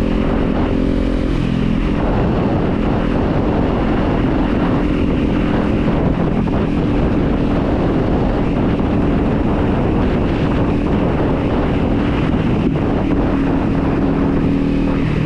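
Kawasaki Z400 parallel-twin engine running steadily while riding, with wind rushing over the microphone. The engine note drops about a second in, then holds steady.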